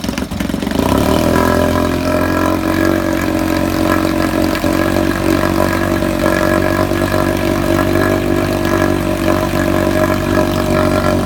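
Vintage Yamaha 3.5AC air-cooled 3.5 hp outboard motor running. Its revs rise about a second in, then it runs steadily at the higher speed.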